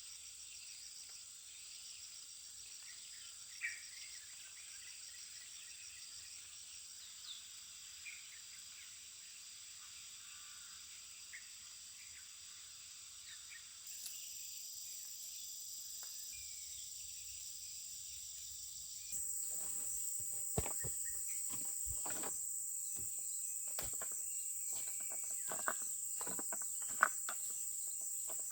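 Steady high-pitched chorus of crickets and other insects. From about two-thirds of the way in, irregular sharp clicks and knocks sound over it.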